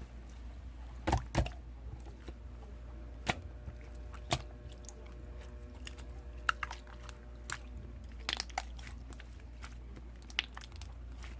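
Slime being squeezed and stretched by hand, giving irregular sticky clicks and pops over a low steady hum.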